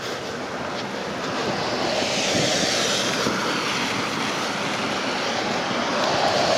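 A vehicle passing on a wet road: a tyre hiss that swells about a second and a half in, is loudest and brightest around the middle, and stays heavy as more traffic follows.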